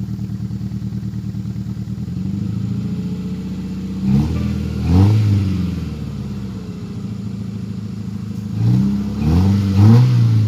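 Honda Accord CB7's four-cylinder engine idling steadily, then blipped with quick revs, a couple around four seconds in and a few more near the end, the pitch rising and falling back each time.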